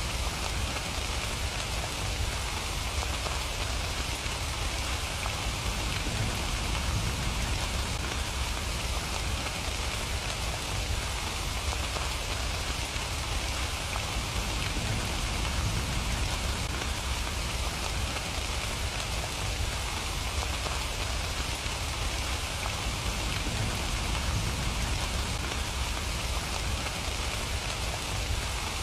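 Steady rain falling: an even hiss of many drops with a low rumble underneath, unchanging throughout.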